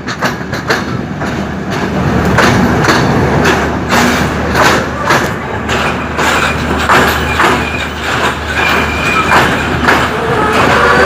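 Passenger train running through a station, heard from the side of a moving coach. Its wheels clack over rail joints in a steady rhythm over a constant rumble. Near the end, a high squeal from the wheels starts.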